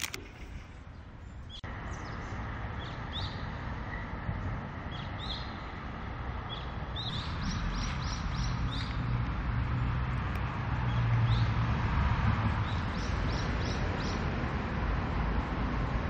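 Small birds chirping in short, high, repeated calls over a steady low background hum.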